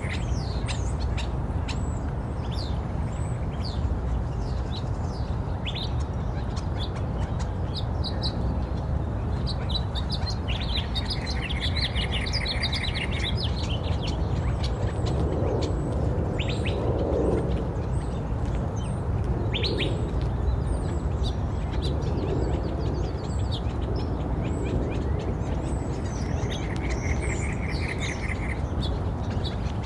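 Birds chirping and calling, with a fast repeating trill that comes back a few times, over a steady low rumble.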